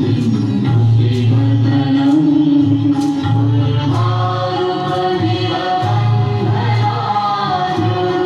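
A group of voices singing a devotional chant together, with a sharp percussive strike about once a second.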